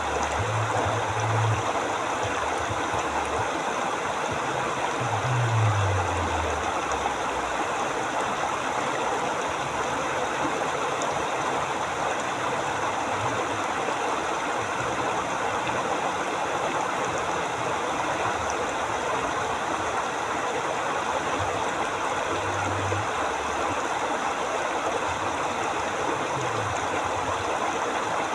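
River water flowing steadily over rocks, a continuous even rush, with a few brief low rumbles now and then, one of them falling in pitch about five seconds in.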